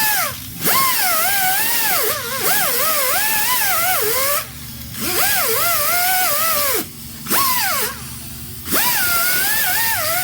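Hand-held power tool whining in repeated runs of one to three seconds, with short pauses between. Its pitch wavers and sags under load as it bites into the work, over a strong hiss.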